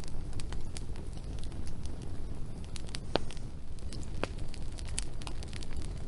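Wood fire crackling, with scattered sharp pops (two stronger ones about three and four seconds in) over a low steady rumble of the flames.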